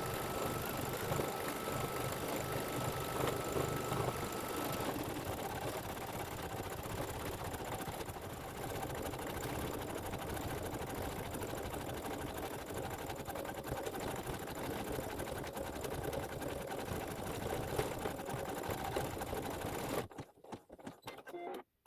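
Embroidery machine stitching steadily, then stopping abruptly near the end at the close of a stitching section.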